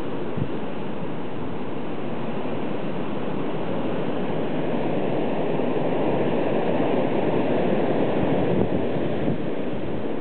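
Blizzard wind blowing through trees, a steady rush that swells in a gust through the middle and eases near the end, with wind buffeting the microphone.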